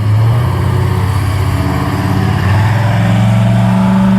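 Car engine running loudly as a car pulls away, holding a steady low note that steps up to a higher one about two and a half seconds in.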